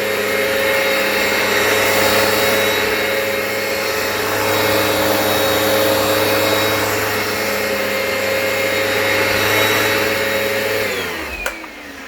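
Hoover Power Path carpet cleaner running steadily, its suction motor and brushes extracting a carpet stain. It is switched off near the end: a click, and the motor winds down with a falling whine.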